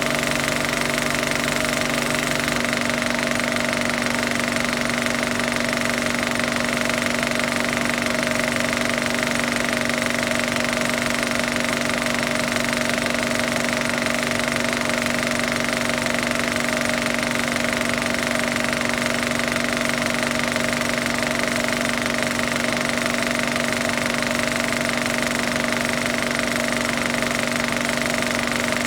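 Steady mechanical running noise: a machine with a constant, unchanging hum of several fixed tones over a noisy rattle.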